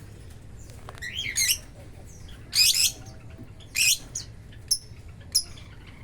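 Lovebirds calling: three harsh, screechy calls in the first four seconds, the loudest a little before halfway, then a couple of short high chirps.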